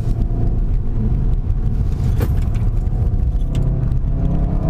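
SEAT Leon Cupra 300's turbocharged 2.0-litre four-cylinder engine pulling under load in third gear over a heavy road rumble. The engine note sags slightly, then climbs again near the end as the car accelerates, with one sharp click about two seconds in.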